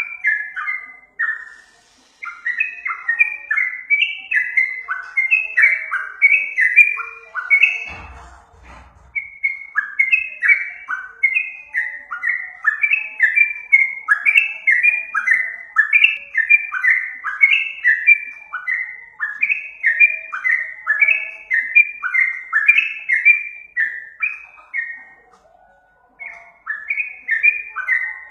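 Yellow-vented bulbul (trucukan) singing: a rapid, continuous run of short bubbly notes, each dropping in pitch, about three a second. The singing breaks off briefly a few times, and a low thump sounds about eight seconds in.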